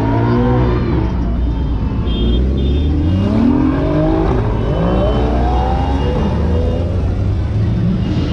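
Sports car engine being revved over and over, its pitch climbing and dropping back several times above a steady low rumble.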